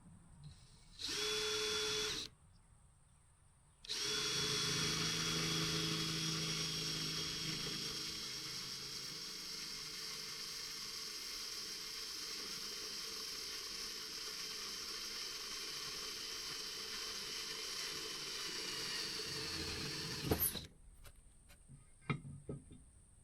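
Power drill running: a brief burst about a second in, then a long steady run of about sixteen seconds whose pitch sags slightly as it bores, stopping sharply near the end. A few knocks and clicks follow.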